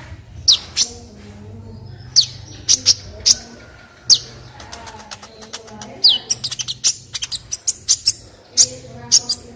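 Kolibri ninja (a sunbird) singing: loud, sharp high notes that slide down in pitch, then from about six seconds in a fast run of short chirps, about six a second. A faint low hum lies under the song.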